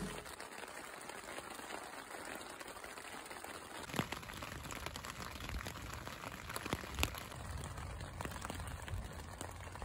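Rain pattering on a tent, heard from inside: a soft, even hiss with scattered drop taps, and a couple of louder taps about four and seven seconds in.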